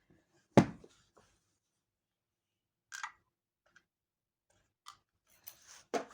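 A few scattered knocks and clicks from objects being handled, the loudest about half a second in and smaller ones around three and five seconds in and near the end.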